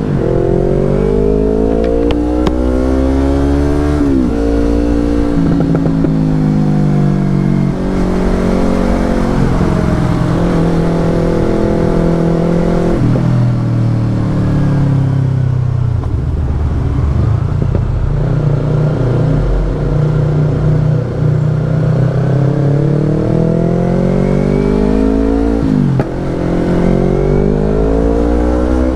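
Yamaha R25's 250 cc parallel-twin engine running through a Brave aftermarket exhaust while riding. The revs climb under acceleration and drop sharply at upshifts, about four seconds in and again near the end. Midway the engine eases off to a lower steady cruise, then pulls up through the revs again.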